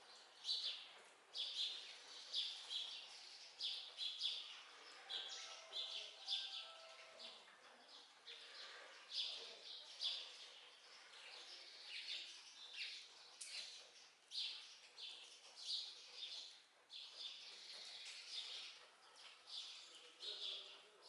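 Small birds chirping: short, high calls repeated about one or two times a second throughout.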